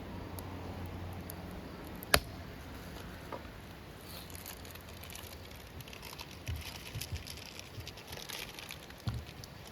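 Wood fire crackling in a fire pit: scattered small irregular crackles, with one sharp loud crack about two seconds in.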